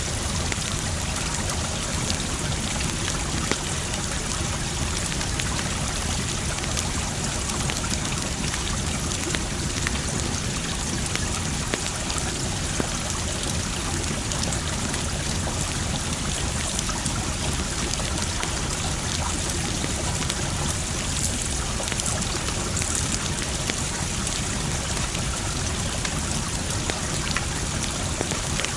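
Campfire crackling with scattered small pops over the steady rush of a trickling stream.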